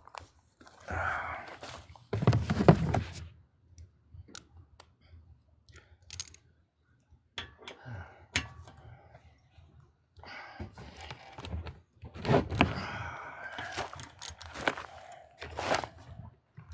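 Irregular knocks, clicks and clanks of hand tools working on a small engine, as a socket is put to a stuck bolt that will not come loose.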